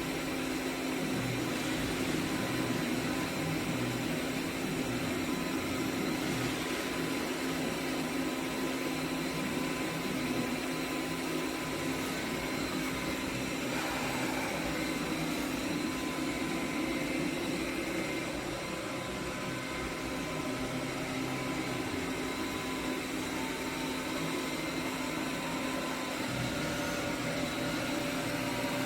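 Cecotec Conga 7490 robot vacuum cleaner running: a steady motor and suction hum with a constant low tone.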